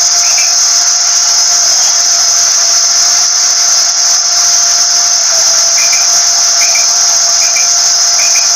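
Steady, shrill cricket trill throughout, with a faint steady hum beneath. From about two-thirds of the way in, a quail (batair) gives a run of about five short paired chirps, a little under a second apart.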